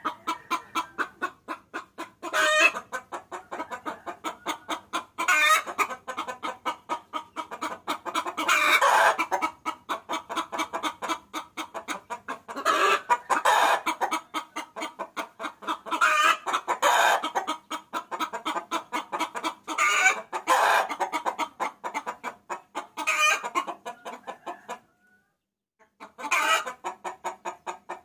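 A hen cackling, calling for a rooster: a fast run of clucks broken every few seconds by a louder drawn-out call. It falls silent for about a second near the end, then starts again.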